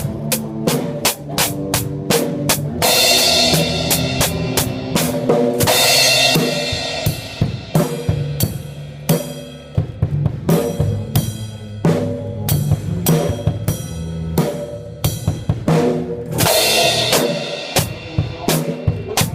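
Drum kit played loudly in a steady run of quick snare and bass-drum hits. Cymbals crash and wash over the beat from about three seconds in, and again near the end.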